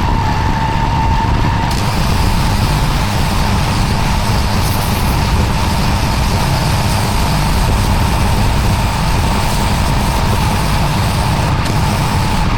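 Pressure washer running steadily, its water jet spraying across block paving, with a constant engine-like rumble and a thin steady whine over a broad hiss.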